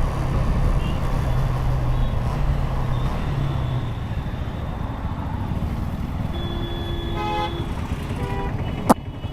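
KTM Duke 250's single-cylinder engine running with road and wind noise in traffic. A vehicle horn sounds for about a second, roughly six seconds in, with a shorter honk just after, and a single sharp click comes near the end.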